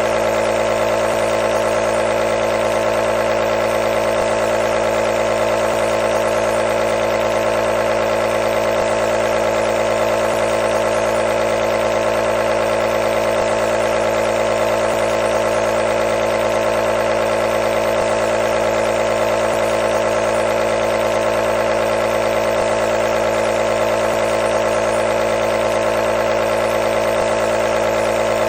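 Compressor nebulizer running continuously: a steady mechanical hum with a buzzing vibration, unchanging in pitch and level.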